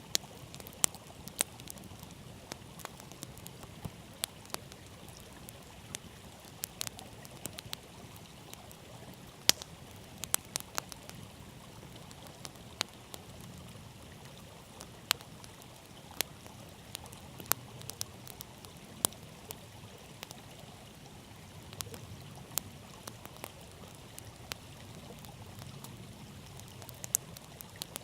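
Open wood campfire crackling, with sharp irregular pops, over the steady rush of a flowing river.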